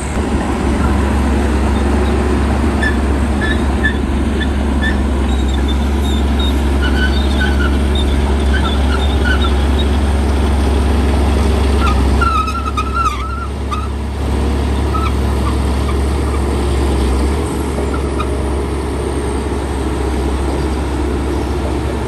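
Heavy diesel earthmoving machinery running steadily with a deep drone, with short high squeaks through the middle and a brief drop in level about twelve seconds in.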